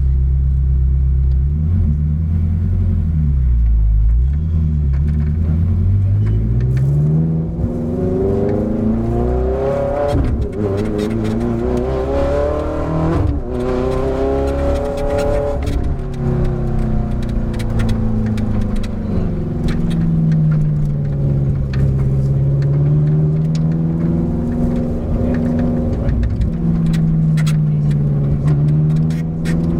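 Ferrari F430 GT race car's V8 engine pulling away and accelerating, its pitch climbing with quick drops at upshifts about ten and thirteen seconds in. After that the revs fall and rise again as the throttle is lifted and reapplied.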